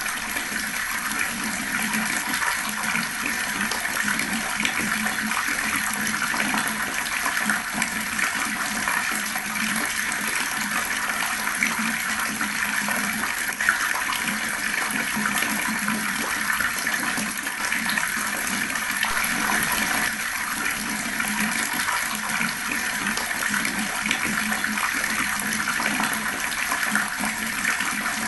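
Fast-flowing water running in a steady, unbroken rush.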